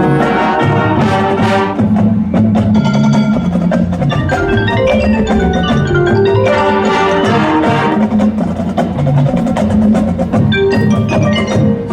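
High school marching band playing, with the front ensemble's mallet percussion (marimba, xylophone, glockenspiel and chimes) standing out in quick runs of short notes over sustained low brass and percussion.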